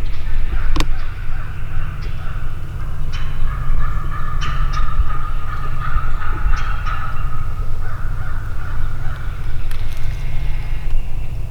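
Wild turkeys gobbling over and over, the gobbles overlapping one another, over a steady low rumble.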